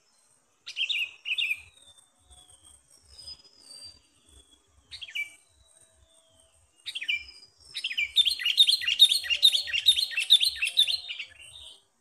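Sooty-headed bulbuls calling: a pair of short calls about a second in and a few scattered calls after, then a fast run of chattering notes from about eight seconds until near the end. A faint, high, pulsing insect trill sounds throughout.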